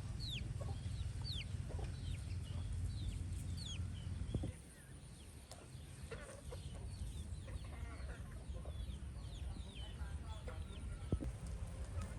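Free-range chickens: chicks peeping in quick, high, falling chirps over the first four seconds or so, then scattered fainter clucks and calls. Under the chirps is a low rumble that stops about four and a half seconds in.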